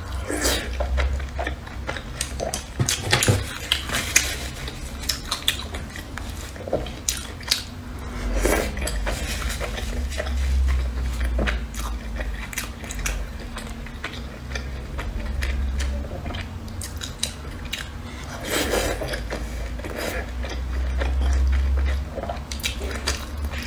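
Close-miked mouth sounds of someone chewing soft beef, cabbage and carrot dumplings: wet, squishy chewing with frequent small clicks and smacks.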